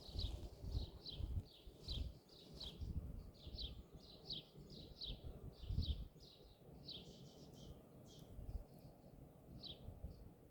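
A small bird calling short, slightly falling high chirps over and over, about two to three a second, thinning out after about eight seconds with a last chirp near the end. A low rumble with soft knocks lies underneath.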